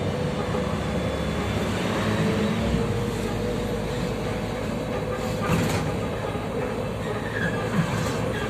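Cabin noise inside a MAZ-105 articulated city bus on the move: steady running and road noise with a faint steady whine, and short rattles about five and a half and eight seconds in.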